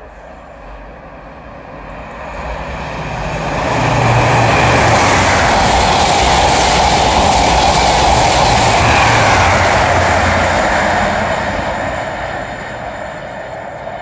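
High-speed passenger train passing at speed: the rush and rumble build over about two seconds, stay loud for about seven, then fade as it goes away.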